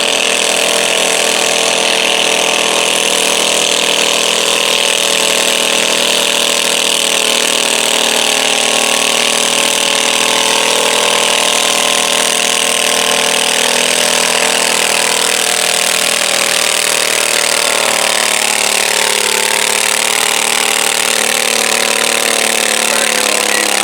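Garden tractor engine running hard under load as it drags a stoneboat down the pulling track. The engine note is steady and dips slightly in pitch about three-quarters of the way through.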